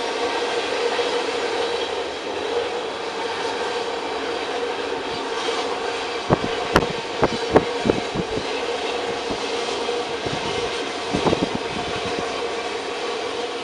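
Freight train cars (tank cars, covered hoppers and gondolas) rolling past at speed: a steady rumble of wheels on rail with a steady hum. About halfway through comes a quick run of sharp wheel clacks, and a shorter cluster follows near the end.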